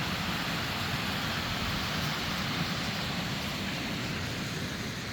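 Steady roar of a waterfall's falling water, even and unbroken.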